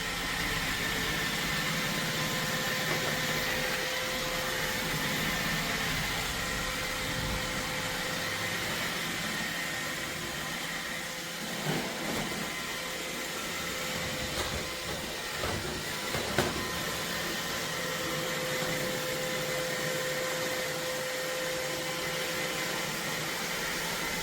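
iRobot Roomba 692 robot vacuum running, a steady noise with a few faint steady tones in it. A few short knocks come about halfway through.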